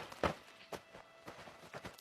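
Arctic fox digging and pouncing in snow: a string of short, irregular crunches, the loudest about a quarter second in.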